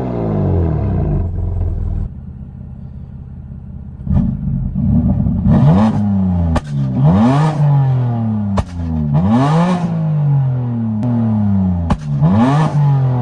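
BMW F80 M3's twin-turbo inline-six, on a flame tune with a downpipe, single mid pipe and stock muffler, being revved hard while parked: the engine falls back from a rev, settles briefly, then is blipped again and again about every two seconds. Each rev drops back with sharp cracks and pops from the exhaust on overrun, the pops that come with the flames the tune is set up to shoot.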